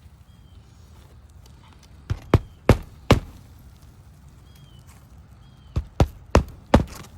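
Sharp knocks in two runs of four, each run lasting about a second, one about two seconds in and another near the end, over a low steady background.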